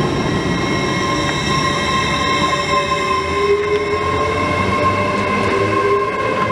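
LNER Azuma high-speed train running past close by: a loud steady rumble of wheels on rail, with a steady whine and a lower tone that slowly rises.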